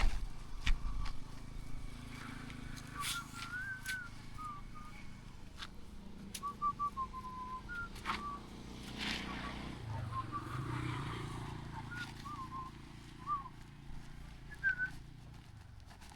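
Outdoor background: scattered short chirping, whistle-like notes over a low steady rumble, with a few sharp clicks.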